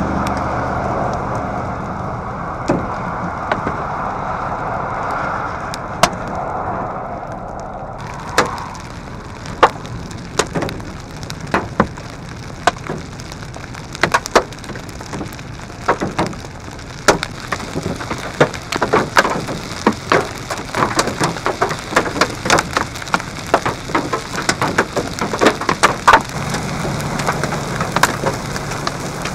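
Hail and heavy rain striking a vehicle: a steady hiss, then from about eight seconds in many sharp, irregular hits that grow denser toward the end.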